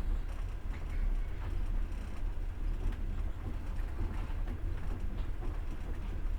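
A passenger train running on the rails, heard from inside the carriage: a steady low rumble with a few faint knocks from the wheels.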